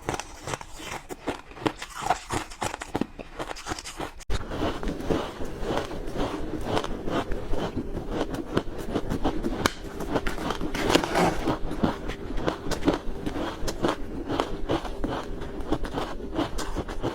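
Ice being bitten and chewed, a dense run of sharp crunching cracks. About four seconds in, the background noise steps up abruptly.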